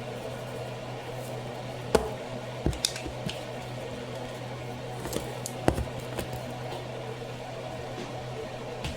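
A few scattered knocks and clinks of kitchen handling over a steady low hum, the loudest knocks about two seconds in and just before six seconds in.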